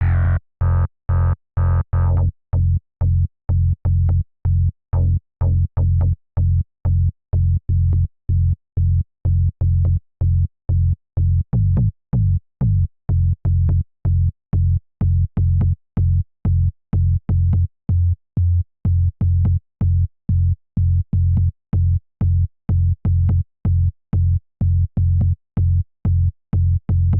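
Electronic music playing back: a deep, hard-gated bass pulse repeating a little over twice a second, with a brighter synth layer that fades out in the first couple of seconds.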